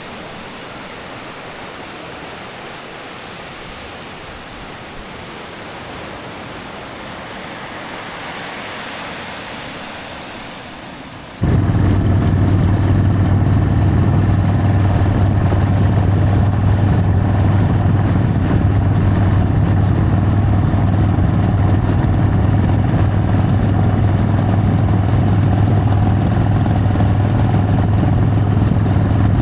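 A steady rush of water with a slight swell, then an abrupt cut about eleven seconds in to a Harley-Davidson Sportster's V-twin engine running steadily under way, loud and even with a deep low drone.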